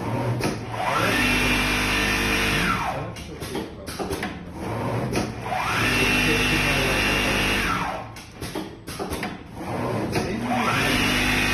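Automatic template sewing machine stitching in repeated runs: the motor whines up to speed, sews steadily for about two seconds, then winds down, with short clicks and knocks between runs. This happens twice, and a third run starts near the end.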